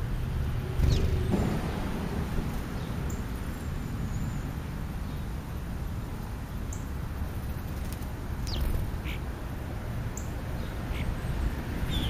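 A few short, high, downward-sliding bird chirps, spaced irregularly and clustered toward the end, over a steady low rumble. A brief thump about a second in.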